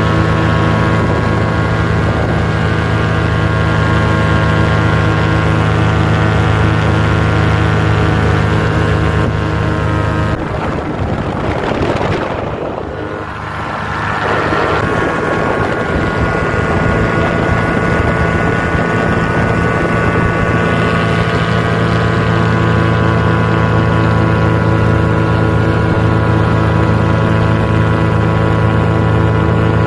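Paramotor engine and propeller running steadily in flight. About ten seconds in the sound dips and wavers for a few seconds, then settles back to the same steady running.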